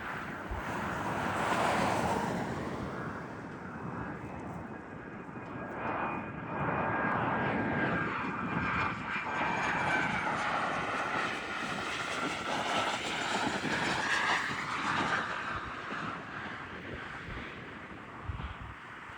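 Twin turbofan engines of a Cessna 560 Citation Encore+ business jet coming in to land: a steady rushing jet noise with a high whine that grows loudest in the middle and drops slightly in pitch as the jet goes by.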